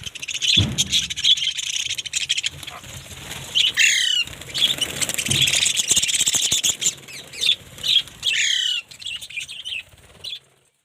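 Flock of caged small parrots chattering continuously in high, rapid calls, with a few louder calls that sweep downward in pitch about 4 and 8.5 seconds in.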